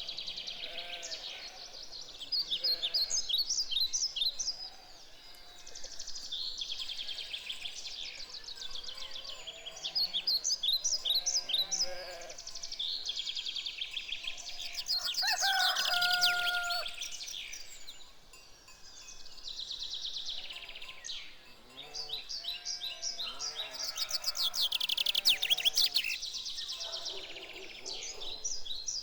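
Songbirds singing in a dawn chorus: many short, rapid chirping and trilled phrases overlapping throughout. About halfway through a lower, held call of about a second stands out.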